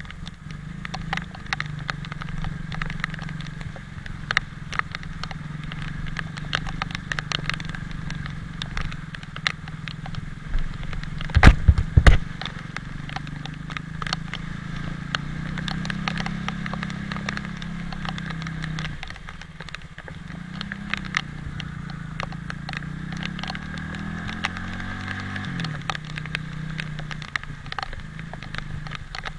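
Italika 250Z motorcycle engine running on the move, its note rising and falling with speed and climbing then dropping sharply near the end. Many sharp crackling ticks throughout, from rain hitting the microphone. One heavy low thump near the middle.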